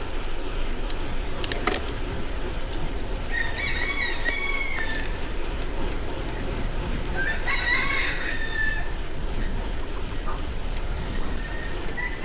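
A rooster crowing twice, each crow lasting about a second and a half, over a steady low rumble.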